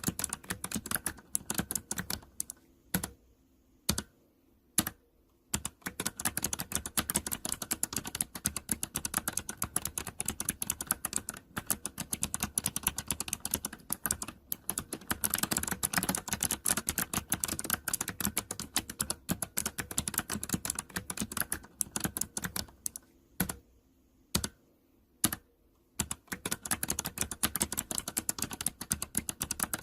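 Typing on a mechanical keyboard with optical switches: fast runs of sharp key clicks, broken by two short pauses that hold only a few single, louder keystrokes.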